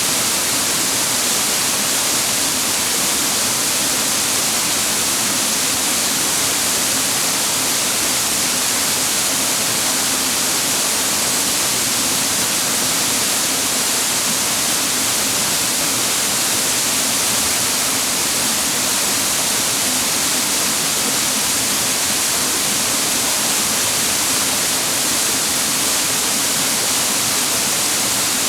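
Mountain water rushing and splashing over rocks at a waterfall-fed stream, a steady, unchanging rush with most of its hiss in the high range.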